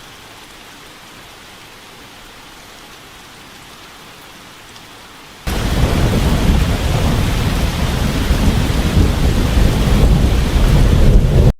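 Steady rain hiss, then about halfway through a sudden, much louder thunderstorm: deep rumbling thunder over heavy rain that carries on and cuts off abruptly at the end.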